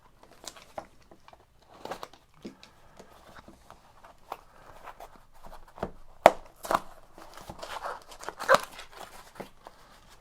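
Cardboard packaging being handled and opened by hand: irregular rustles, scrapes and small knocks, with a couple of sharper knocks past the middle.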